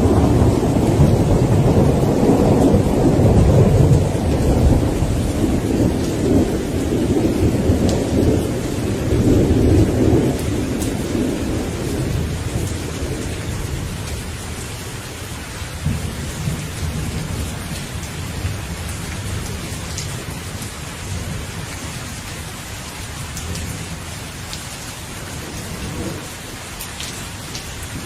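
Steady rain with rolling thunder: a long, loud rumble over the first ten seconds or so that gradually dies away, then fainter rumbles under the rain.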